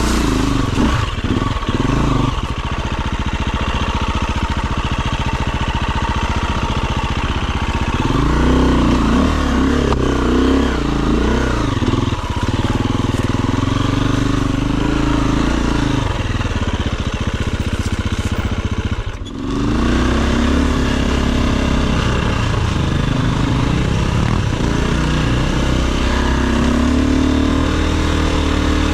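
Dirt bike engine running and revving up and down, its pitch rising and falling with the throttle, with a brief cut in sound about two-thirds of the way through before it picks up again.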